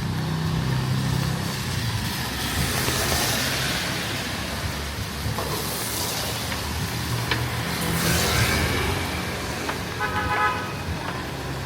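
Street traffic: vehicle engines running and vehicles passing with a hiss of tyres, and a short horn toot about ten seconds in.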